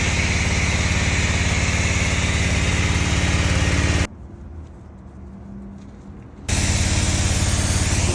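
Pressure washer running and spraying the car during the pre-wash: a steady motor hum with spray hiss. About four seconds in, it drops sharply for about two and a half seconds, then comes back.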